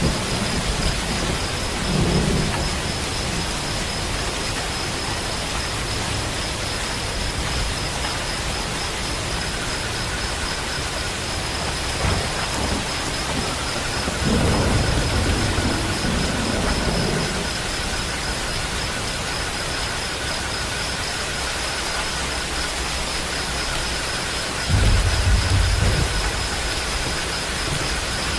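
Steady heavy rain falling, with thunder rumbling low three times: a short one about two seconds in, a longer roll near the middle, and a sharper, louder one near the end.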